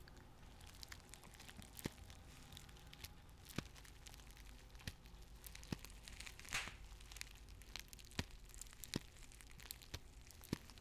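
Paper tea bags being handled close to the microphone: faint, scattered crinkles and small crackles of the paper, with a brief louder rustle about two-thirds of the way through.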